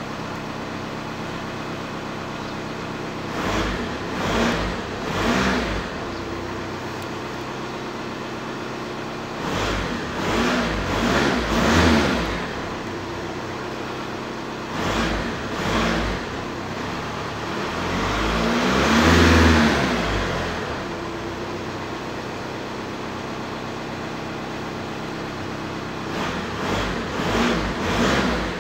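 Car engine idling and revved in short blips of the accelerator: three quick revs a few seconds in, a run of three or four climbing revs around ten seconds, two more near fifteen seconds, one longer and higher rev a little before twenty seconds, and three quick blips near the end, each falling back to a steady idle.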